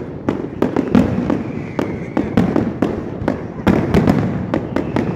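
Aerial fireworks shells bursting in quick succession: a rapid, irregular string of bangs, about three a second, over a continuous low rumble.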